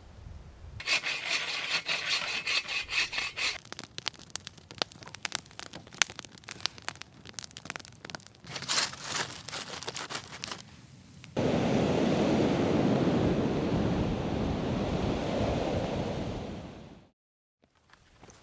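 Crackling, scraping clicks for about ten seconds, then a loud steady rushing noise that starts suddenly and fades out, followed briefly by more crackling.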